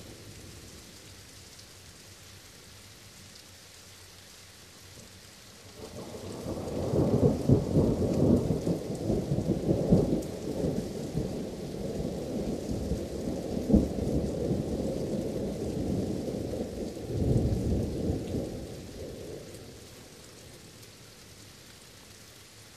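Steady rain with a long roll of thunder that builds about six seconds in, cracks loudest through the middle, swells once more and then rumbles away near the end.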